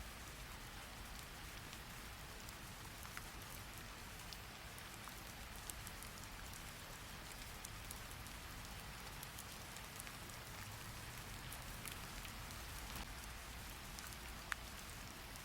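Steady rain falling as an even hiss, with scattered single drop ticks, the sharpest near the end.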